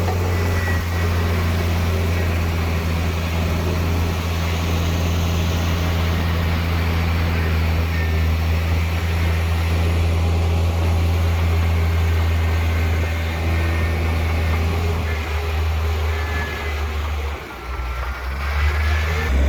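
Heavy construction machine's diesel engine running steadily with a deep drone, with faint high squeals rising and falling now and then. The engine eases briefly near the end, then picks up again.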